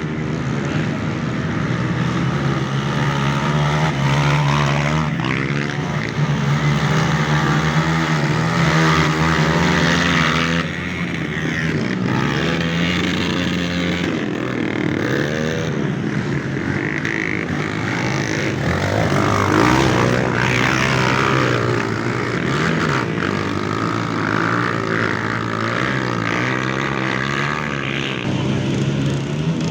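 Dirt bike engines running, with several overlapping engine notes rising and falling as the throttles are worked.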